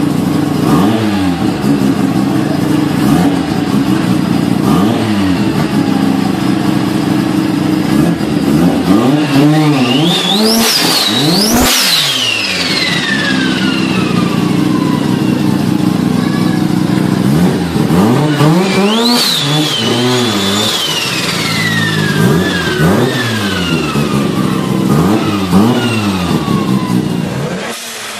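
Turbocharged car engine revved again and again. Twice a high turbo whistle climbs as the turbo spools up, then slowly falls away as it spools down.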